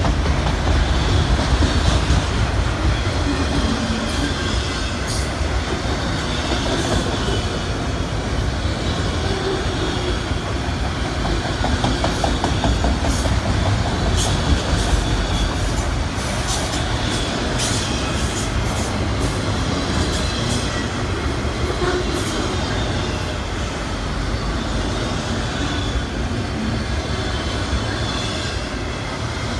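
Freight train of autorack cars rolling past: a steady rumble of steel wheels on rail, with a run of sharp clicks midway.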